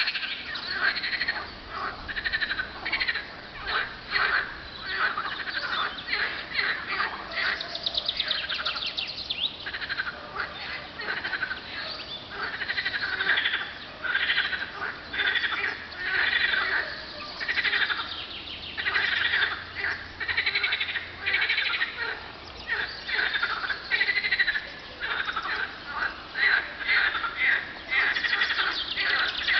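A chorus of many frogs calling at once, their pulsed, rattling calls overlapping and swelling and dipping every second or two.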